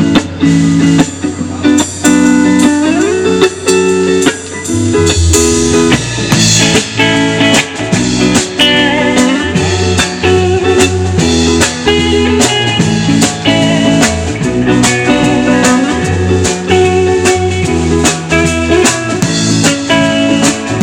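Live band playing an instrumental passage with guitar and drum kit; stronger low notes join about five seconds in.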